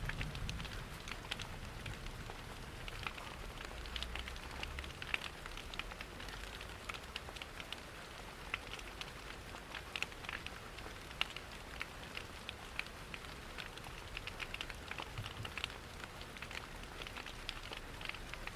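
Steady rain pattering, mixed with a wood fire crackling in a fireplace: a constant hiss dotted with many short, sharp crackles and ticks. A faint low rumble sits under it in the first few seconds.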